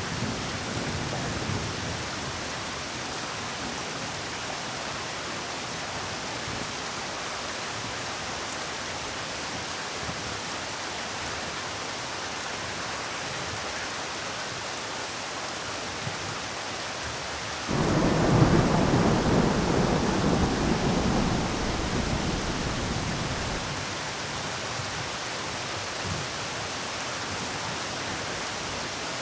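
Steady rain falling, with a clap of thunder breaking in suddenly about two-thirds of the way through and rumbling away over several seconds.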